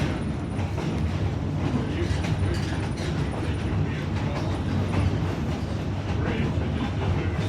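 Train riding behind a diesel locomotive: a steady low rumble and hum of the rolling train, with wheels clacking over the rail joints.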